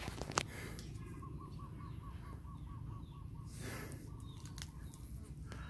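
A bird calling a quick, even run of about a dozen short notes, some five a second, over a low steady rumble, with a brief swish about two-thirds of the way through.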